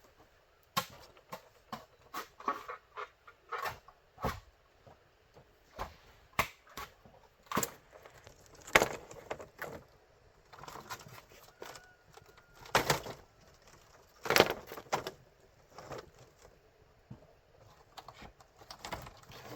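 Irregular sharp knocks and cracks of bamboo being worked by hand, a few louder strikes among lighter taps.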